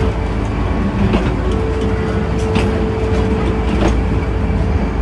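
Old train running along the track: a steady rumble, with the wheels clicking sharply over rail joints about every second and a quarter.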